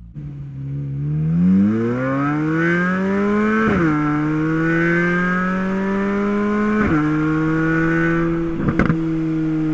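Chevrolet Corvette Z06's LT6 5.5-litre flat-plane-crank V8 accelerating hard. The engine note climbs for a few seconds, drops sharply at an upshift, drops again at a second upshift about seven seconds in, then holds steady, with a couple of brief pops near the end.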